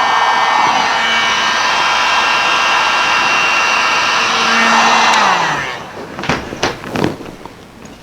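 Electric blower with a motor whine running steadily, then switched off about five and a half seconds in, its pitch sliding down as it spins down. A few knocks and clicks of handling follow.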